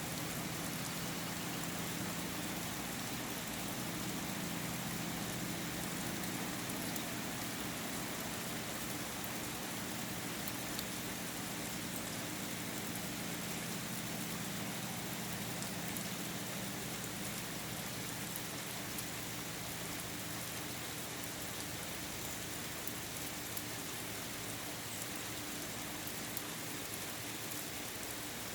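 Steady rain falling, with many small drop ticks on surfaces. A low steady hum runs underneath, stronger in the first half.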